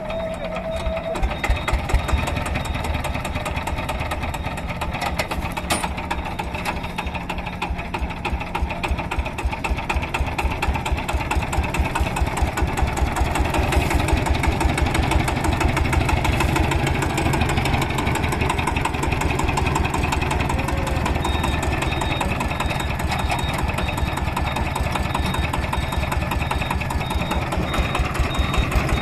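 Vintage engine running with a steady, rapid exhaust beat, a little louder from about halfway through.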